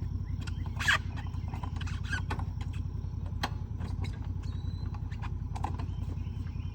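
Tractor engine running steadily, with scattered clanks and knocks over it and one louder knock about a second in.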